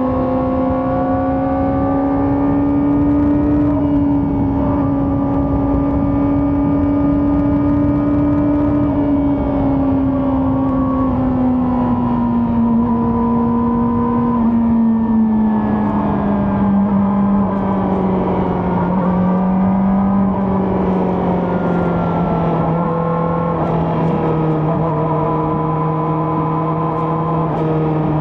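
Kawasaki ZX-4RR's 399 cc inline-four running steadily at high revs while riding. Its exhaust note holds high, then eases gradually lower from about ten seconds in as the revs come down.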